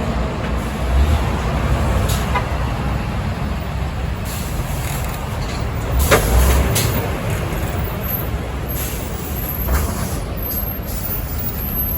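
Heavy trucks running past on a road: a steady low engine rumble with road noise and a few short hisses.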